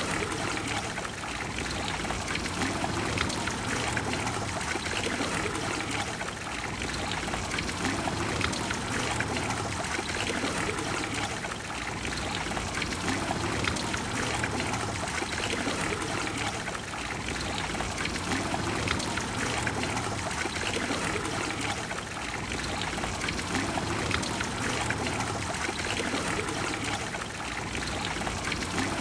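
Water of the Trevi Fountain splashing and pouring steadily into its basin, a dense, even rush.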